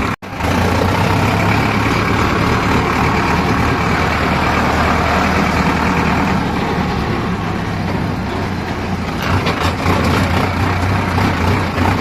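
Heavy diesel engine running steadily with a low hum, the sound cutting out for an instant just after the start, and a few knocks near the end.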